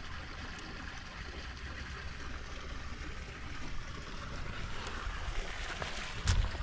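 Steady wind rumble on the microphone, outdoors while walking, with a single sharp knock near the end.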